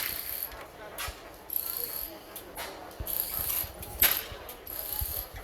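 Antique 1899 stationary gas engine running, with sharp knocks from its firing coming roughly once a second at uneven intervals.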